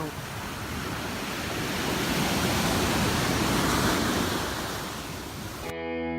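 Ocean surf washing in, swelling to a peak midway and then ebbing. Guitar background music comes in near the end.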